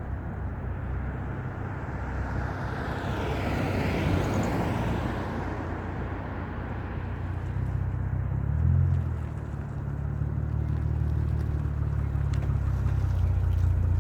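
Lexus IS350's 3.5-litre V6 running through an ARK Performance cat-back exhaust: a steady low exhaust drone, swelling briefly about nine seconds in. A whoosh rises and fades around three to five seconds in.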